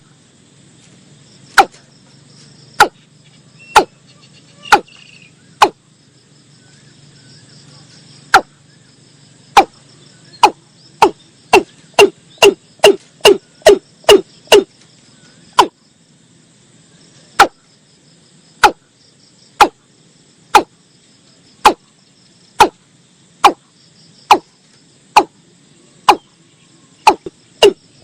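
Watercock (Gallicrex cinerea) calling: a long series of short, deep notes that drop in pitch, about one a second, speeding up to about three a second around the middle before slowing again. Crickets chirr steadily underneath.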